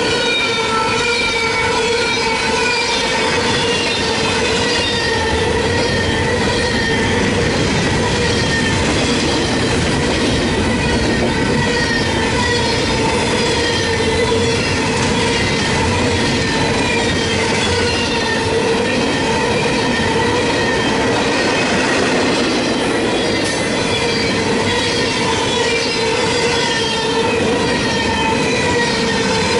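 Norfolk Southern freight train rolling steadily past, its cars' wheels squealing in many short, sliding high tones over a steady ringing tone and the rumble of the train.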